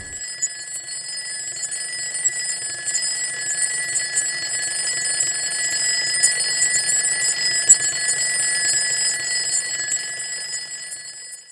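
A steady, high ringing alarm with several constant tones and a fast rattling shimmer on top, cutting off suddenly near the end.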